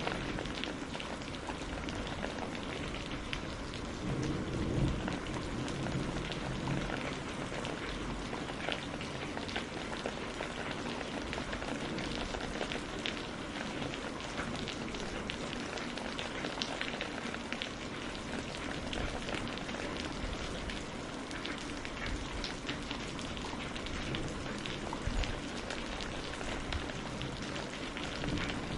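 Steady rain pattering on a greenhouse roof, a dense even hiss full of small drop ticks. A low rumble swells briefly about four seconds in.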